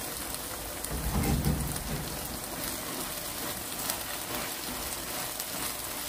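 Shishito peppers, fish cake and rice cakes frying in a wok, a steady sizzle as they are stirred with a wooden spatula. A brief low sound about a second in.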